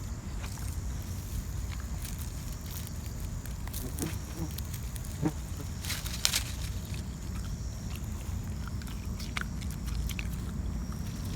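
A black Shiba Inu chewing and tearing at grass: scattered soft crunches and clicks, with a few sharper snaps around the middle, over a steady low rumble.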